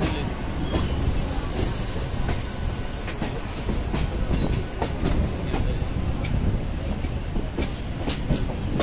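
Suburban local train running on the rails: a steady low rumble with irregular clicks and clatter of the wheels over the track, and brief faint high wheel squeals.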